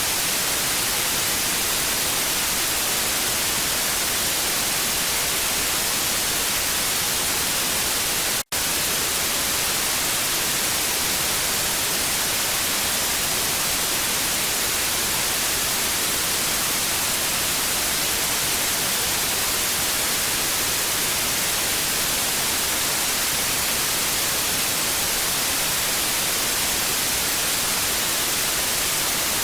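TV static: a steady hiss, strongest in the high range, with a momentary dropout about eight seconds in.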